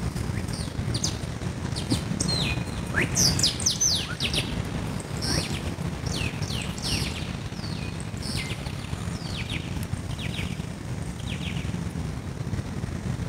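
Birds chirping: many short chirps that each slide down in pitch, over a steady low rumble.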